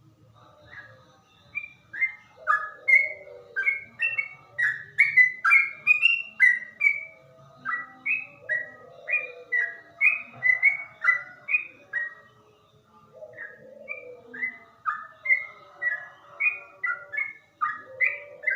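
Yellow-vented bulbul (trucuk) singing a long run of short, clear whistled notes at about two a second, in a slow, low-toned delivery. The song pauses briefly about twelve seconds in, then resumes.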